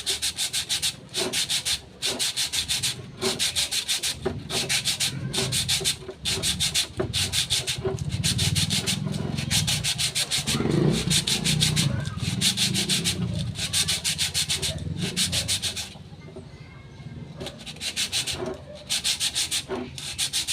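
Rasping back-and-forth hand strokes of an abrasive against the metal lip at the rim of a brake drum, about one to two strokes a second, with a short pause about three-quarters of the way through; the strokes are taking down the raised lip so the drum can go on over the brake shoes. A low hum runs underneath through the middle.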